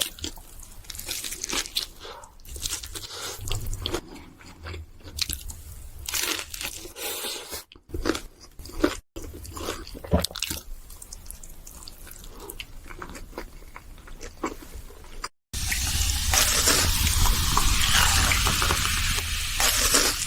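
Close-miked eating: wet chewing, smacking and soft crunching of seafood fried rice with cheese, in irregular clicks and crackles. About 15 seconds in, after a short break, a loud steady hiss takes over for about five seconds.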